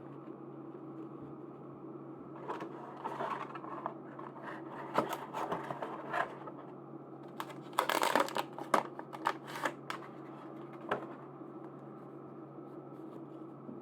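Merchandise packaging being handled and opened by hand: scattered clicks and short rustles, with the loudest crinkling tear a little past the middle, then a few last clicks.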